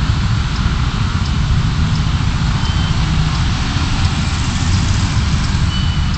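Steady driving noise of a car as picked up by a dashcam: a constant low engine and tyre rumble under an even hiss.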